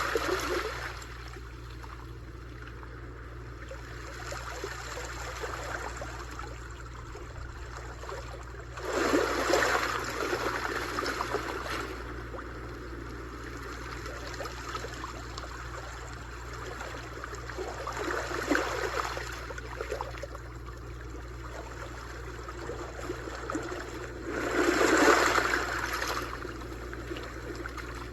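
Sea waves breaking on a shore: a swelling crash about every eight seconds, three times, with a steady wash of water between.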